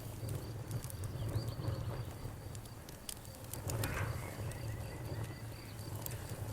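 Campfire crackling, with scattered sharp pops and a louder snap-and-hiss about four seconds in, over a low steady rumble. Crickets chirp steadily in a high, fast pulsing trill.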